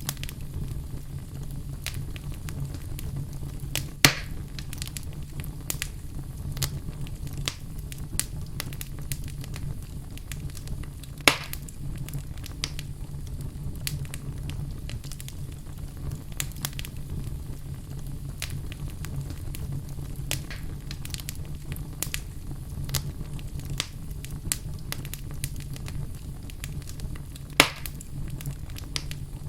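Wood fire burning in a fireplace: a steady low rumble of flames with frequent small crackles, and three loud sharp pops from the burning logs, about four seconds in, about eleven seconds in, and near the end.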